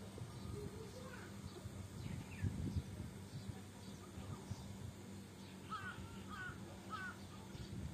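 Birds calling outdoors: a few short calls, then three in quick succession near the end, over a faint rustle of a cast net being picked through on the grass.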